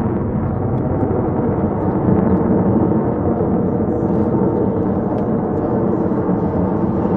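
Distant jet roar from an F-35A Lightning II's single afterburning turbofan, a steady low rumble.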